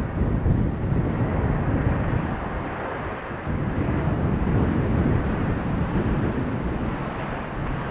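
Jet airliner engine noise: a steady low rumble.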